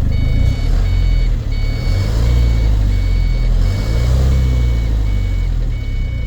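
Iveco Eurocargo truck's diesel engine running while its reversing alarm beeps steadily about once every three-quarters of a second; the engine note rises and falls twice.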